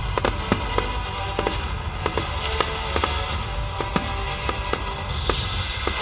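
Fireworks going off in a quick irregular run of sharp bangs and crackles, several a second, over music with sustained tones.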